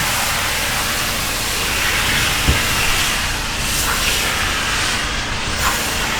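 Pressure washer lance spraying a high-pressure water jet steadily into the standing water of a blocked drainage gully, blasting the water away to expose the blockage.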